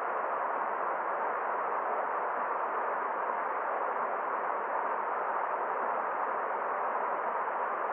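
Forest stream running: a steady, even rush of flowing water with no splashes or changes.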